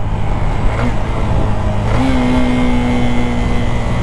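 Motorcycle riding along the road, its engine running under a continuous low rumble. About halfway through, a clear steady tone comes in and holds at one pitch.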